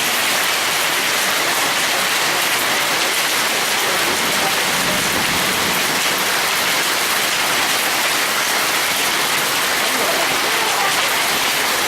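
Heavy hail mixed with rain pelting down, a dense, steady clatter-hiss with no let-up.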